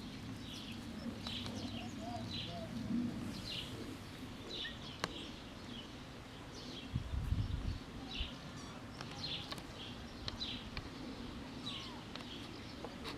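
A bird chirping: short, high chirps repeated about once a second, over a low background hum, with a brief low rumble about seven seconds in.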